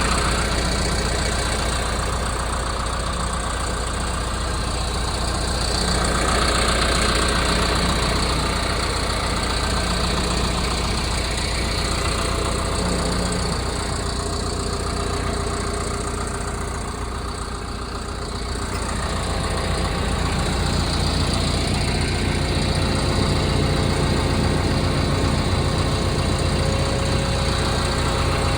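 Liebherr R926 Compact tracked excavator's diesel engine running steadily, its level swelling and easing several times, with a dip about two-thirds of the way through before it picks up again.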